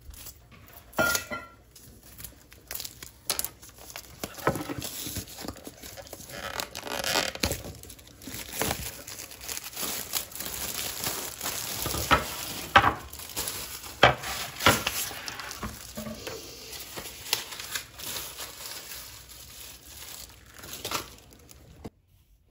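Paper or plastic packaging being handled: crinkling and rustling with many sharp light knocks and clicks.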